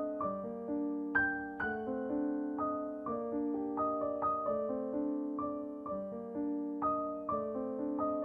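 Slow, gentle solo piano music, single notes and soft chords struck about twice a second, each ringing and fading away.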